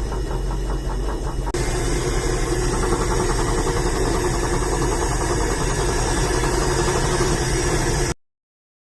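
Ford D-series truck engine running steadily, just brought back to life after 15 years laid up with a new carburettor, points and coil. About a second and a half in the sound gets fuller and brighter, and near the end it cuts off suddenly.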